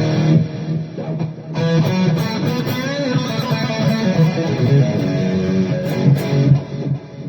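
Electric guitar played through a Donner Arena2000 multi-effects pedal's amp modelling: a chord rings out, a new chord is strummed about one and a half seconds in, and picked notes ring on until they die down near the end.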